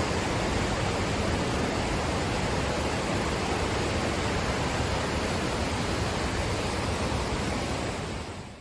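Waterfall pouring steadily, an even rushing noise that fades out near the end.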